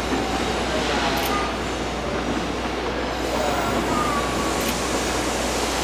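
ED76 electric locomotive hauling a container freight train, approaching slowly as it arrives: a steady rumble of wheels and running gear on the rails, with a few faint, brief squeals.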